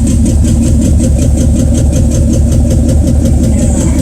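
Rat rod's engine idling steadily with a rapid, even valve-train tick, about seven a second, which the owner traced to a bent pushrod.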